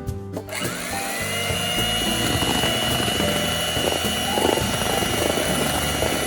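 Electric hand mixer starting up about half a second in, its whine rising as the motor spins up, then running steadily with a high whine and a rattle, as it whips the meringue for soufflé pancake batter.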